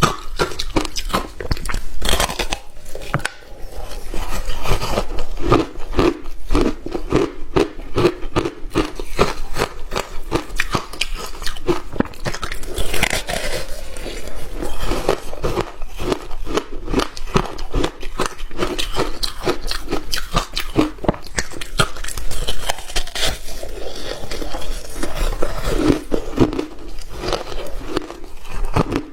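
Hard ice being bitten and chewed close to the microphone: a steady run of sharp crunches and crackles.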